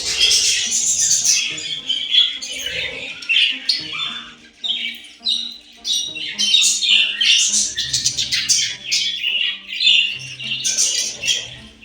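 Budgerigar chattering and warbling without a break: a rapid run of short squawks and chirps over fainter background music.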